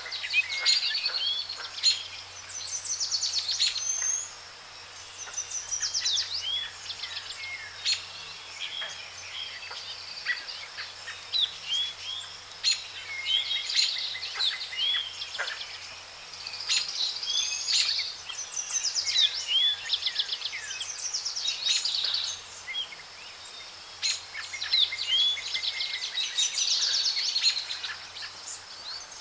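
Tropical forest birdsong: several birds calling and trilling with quick chirps and rising whistled notes, in bursts every few seconds over a steady background hiss.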